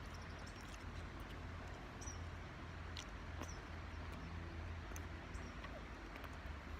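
Faint outdoor ambience: a steady low hum with a few scattered faint high chirps and ticks, like small birds or insects.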